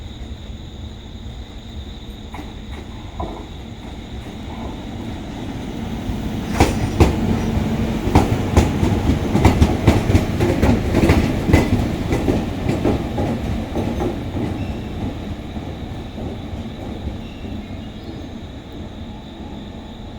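Two DD200 diesel-electric locomotives coupled together and running light, their diesel engines droning as they come in. The wheels give a rapid, irregular run of clacks over the rail joints, loudest from about six to fourteen seconds in, before the sound fades away.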